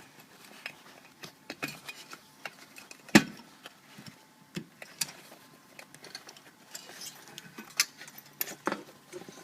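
Irregular small clicks, taps and knocks from hands working a new bag and its wires onto the bottom plate of a Bag Shag golf ball retriever, with one louder knock about three seconds in.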